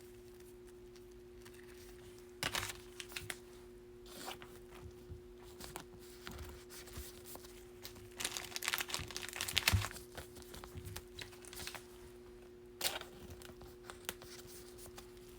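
Crinkling and tearing of a foil trading-card pack wrapper and cards being handled, in scattered bursts, the busiest about eight to ten seconds in, over a steady low hum.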